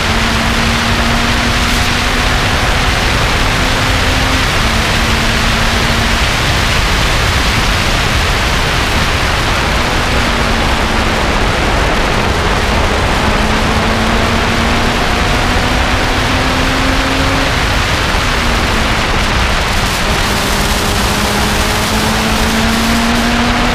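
Lotus sports car engine running at moderate revs under heavy wind and road noise. Its note climbs slowly and drops back several times, about 4, 12 and 18 seconds in.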